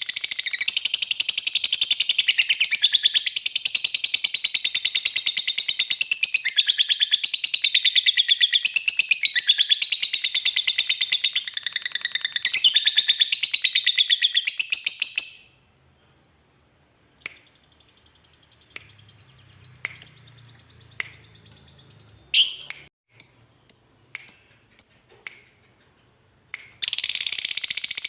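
Lovebird giving its long 'ngekek' song: a very rapid, high-pitched chattering trill that breaks off about halfway, followed by a few short sharp chirps, before the trill starts again near the end.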